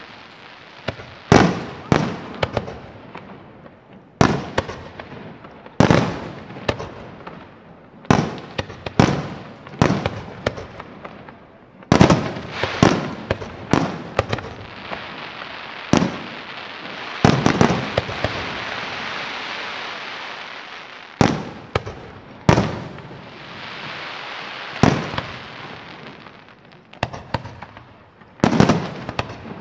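Fireworks display: a string of loud shell bursts, each bang trailing off in an echo, with a long crackling hiss of glittering effects swelling through the middle before more bangs near the end.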